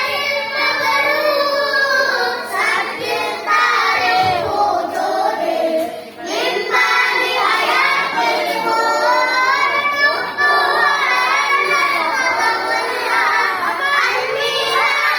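A child singing a melody with long, gliding notes, pausing briefly about six seconds in.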